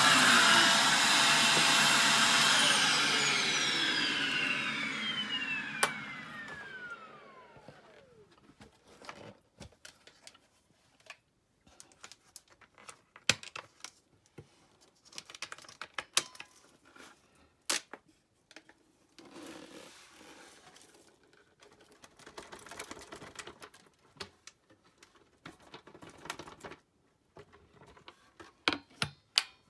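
Upright vacuum cleaner running, then switched off a couple of seconds in, its motor whine falling in pitch as it winds down over several seconds. Scattered light clicks and knocks follow.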